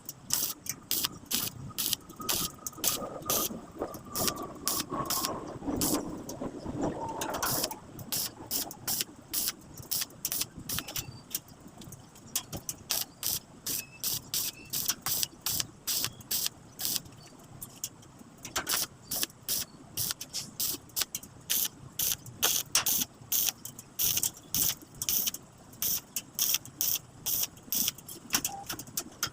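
Repeated sharp knocks, about two to three a second and irregularly spaced: a hammer tapping on a metal frame.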